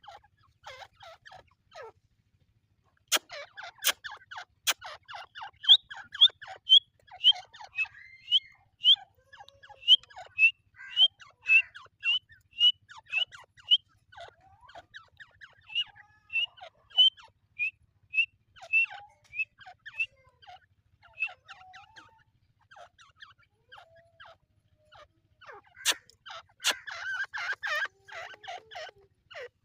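Teetar (francolins) calling: a long run of short, high, whistled notes, each bending in pitch, about two a second, with softer chattering notes around them. There are a few sharp clicks about three seconds in and again near the end.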